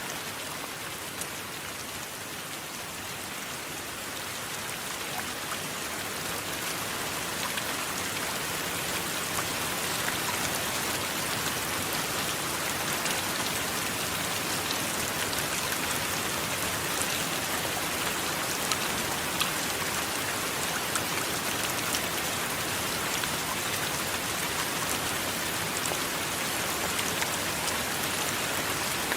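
Steady heavy rain falling on a surface, with scattered sharper drops, growing a little louder over the first several seconds and then holding even.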